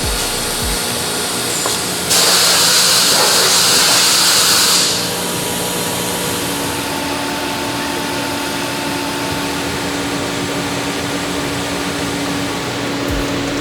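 Workshop tool noise: a loud hissing burst lasts about three seconds, starting about two seconds in, over a steady hum.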